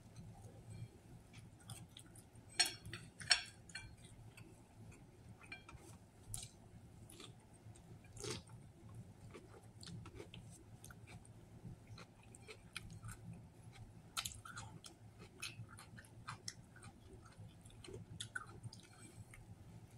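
A person chewing mouthfuls of a sub sandwich, with wet mouth clicks and smacks scattered throughout and two louder smacks about three seconds in, over a faint low hum.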